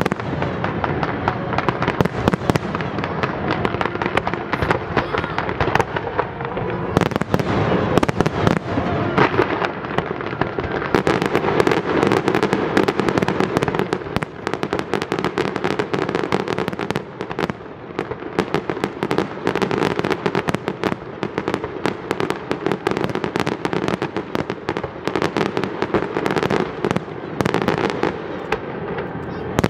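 Fireworks display: aerial shells bursting in a dense, continuous barrage of bangs and crackle, the bangs following each other too fast to count.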